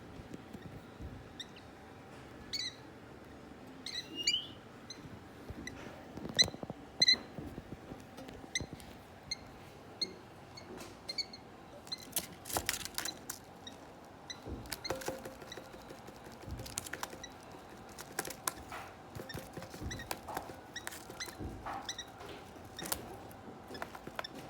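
Young African lovebird chicks giving short, high peeps and squeaks, scattered among light clicks and taps.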